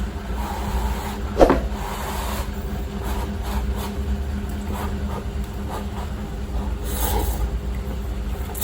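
Eating instant fried noodles from a cup: short mouth and utensil sounds of chewing and slurping, the sharpest about a second and a half in, over a steady low hum.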